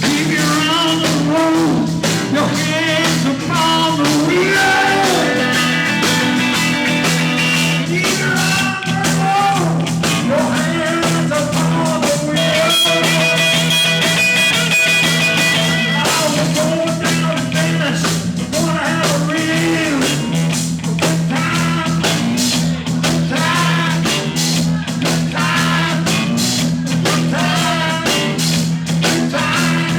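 Live blues-rock band playing an instrumental break: a lead line of bending and held notes over a steady bass and drum groove.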